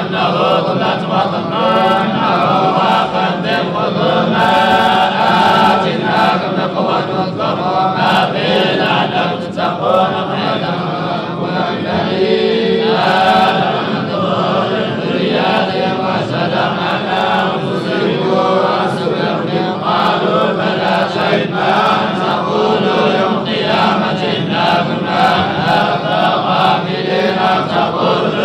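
Male chanted Quran recitation, flowing on without a break.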